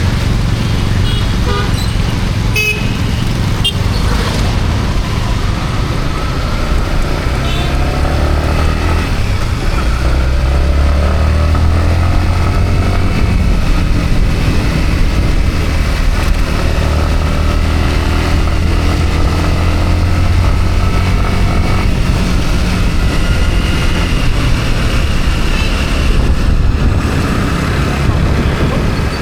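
Yamaha MT-15's single-cylinder engine running under way, rising in pitch as it accelerates about ten seconds in, over tyre and rain hiss on a wet road. A few short horn toots from traffic sound in the first few seconds.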